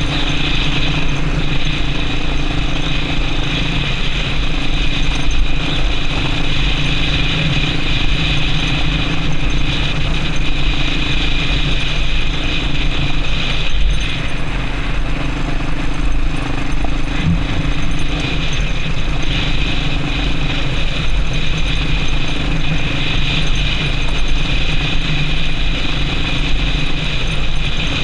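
Yamaha Serow XT225 enduro motorcycle's single-cylinder four-stroke engine running steadily under way, with a constant rushing noise over the engine note.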